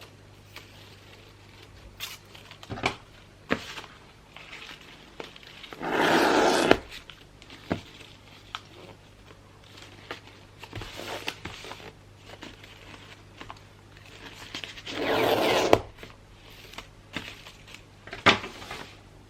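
Gift wrapping being handled: scattered crinkles and small taps of paper, with two louder tearing sounds, each just under a second long, about six and fifteen seconds in. A low steady hum runs underneath.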